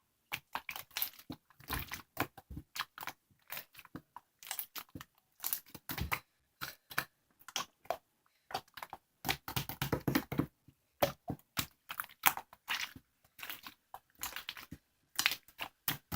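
A dense, irregular run of close crunching and crackling clicks, several a second, stopping and starting in short clusters.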